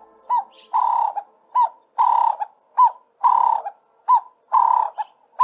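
A bird calling over and over: short arched notes alternate with harsh, rasping calls, a pair about every second and a bit.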